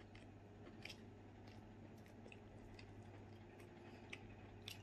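Faint close-up chewing of a mouthful of food, with a scatter of soft mouth clicks spread through.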